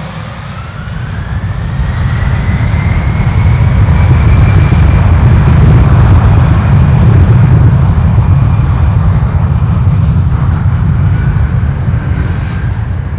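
An aircraft's engines passing close by. A loud engine rumble builds over the first few seconds, peaks midway and slowly fades, while an engine whine climbs in pitch and later sounds lower as the aircraft moves away.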